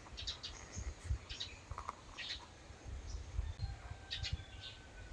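Small birds chirping in short calls, several a second, over a low uneven rumble.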